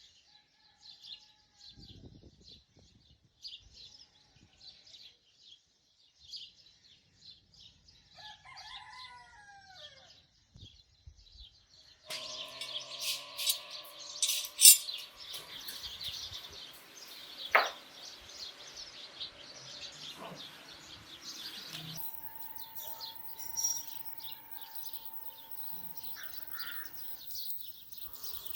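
Birds chirping, with many quick high calls and one longer falling call about eight seconds in. The birdsong grows louder and busier about twelve seconds in, with a sharp click partway through.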